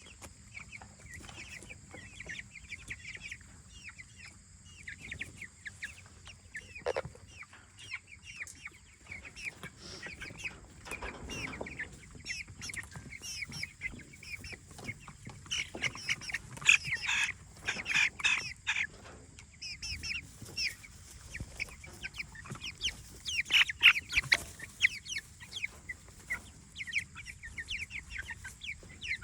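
A flock of young meat chickens peeping in many short, high chirps, with louder, busier bursts of calling about halfway through and again later on.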